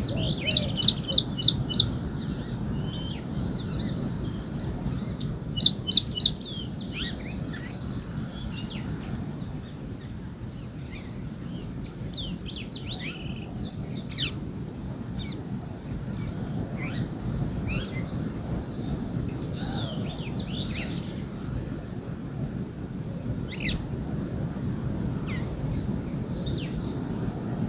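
Birds chirping and calling, with a loud run of five quick high notes near the start and three more about six seconds in, then scattered chirps throughout, over a steady low background rumble.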